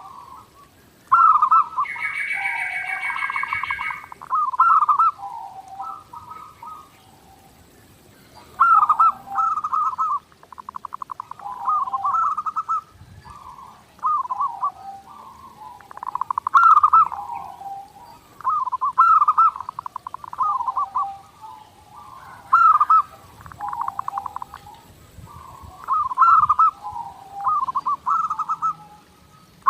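Zebra dove (perkutut) singing continuously: repeated trilled cooing phrases, a few seconds apart. A brief, higher-pitched call from another bird comes about two seconds in.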